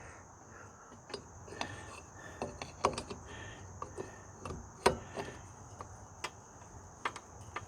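Scattered clicks and light knocks of hand tools being handled at a quad's rear axle, the sharpest about five seconds in, over a steady high cricket trill.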